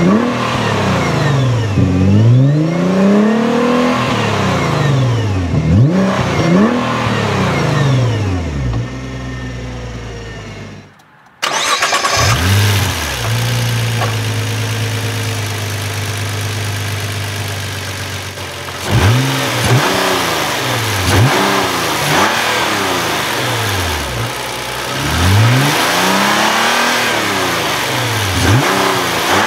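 2015 Nissan GT-R's twin-turbo V6 revved repeatedly in quick blips that rise and fall, heard at the quad exhaust tips. After a short break about eleven seconds in, it idles steadily for several seconds, then is blipped again several times in the engine bay.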